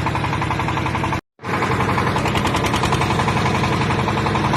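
Backhoe's diesel engine running steadily with a fast, even beat. The sound drops out completely for a moment a little over a second in, then the engine resumes.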